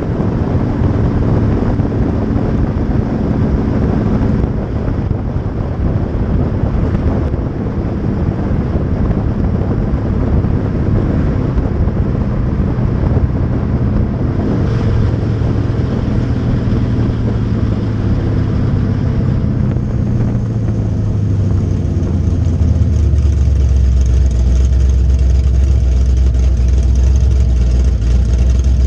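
1986 Monte Carlo SS's small-block Chevy V8 through a Flowmaster exhaust, heard beside the rear tyre over road and wind noise as the car cruises. The engine note falls as the car slows down, and for the last several seconds it settles into a steady low idle at a stop.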